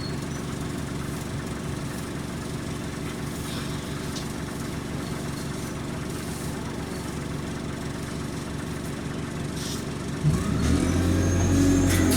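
Alexander Dennis Enviro200 bus engine running steadily at idle, then revving up sharply about ten seconds in, with a rising whine over the louder engine note.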